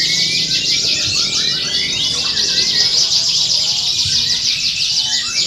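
Many domestic canaries singing at once: dense, fast overlapping trills and rolls with chirping notes running on without a break, as in a canary singing contest.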